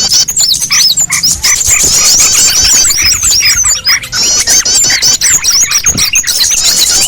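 Bird-lure recording of many small songbirds calling at once: a loud, dense chorus of rapid high chirps and sweeping notes with lower notes beneath, a mix made to draw small birds in.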